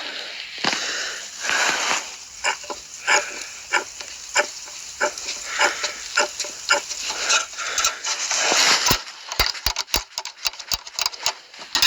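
Rubber squeaks, scrapes and clicks of hands forcing a primer bulb's fuel line onto a small engine's carburetor. Near the end comes a quick run of sharp clicks.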